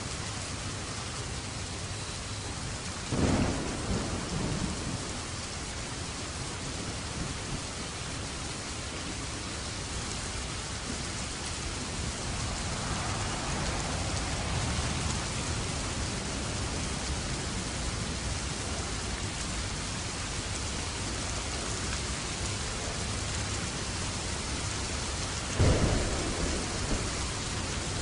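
Steady rain falling, with two sudden cracks of thunder, one about three seconds in and one near the end, each trailing off in a low rumble.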